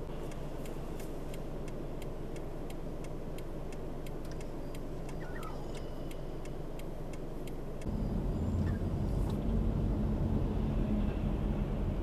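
A motor vehicle's steady low rumble with rapid regular ticking, about three ticks a second. About eight seconds in, the ticking stops and the rumble suddenly gets louder.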